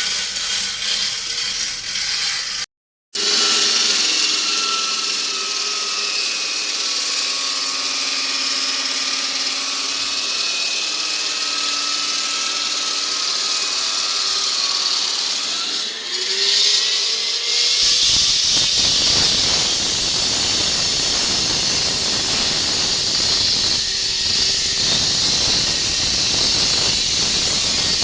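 Concrete-cutting saw running: a high whine that shifts slightly in pitch, over a hiss. After a rise in pitch about two-thirds of the way in, it gives way to a louder, harsher rushing grind.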